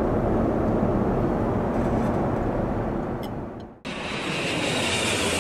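Steady cabin noise of a Boeing 787-9 airliner in flight. Just under four seconds in it fades and cuts off sharply, then resumes at once with more hiss, as at an edit between two recordings.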